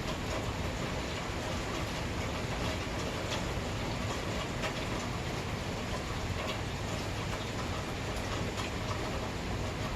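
Heavy rain falling steadily during a thunderstorm, with scattered sharper drop hits.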